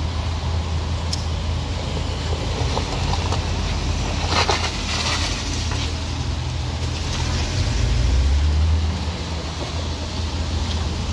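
Road vehicle engine running with a steady low drone. There is a short hiss about four and a half seconds in, and the engine gets louder for about a second near the eight-second mark.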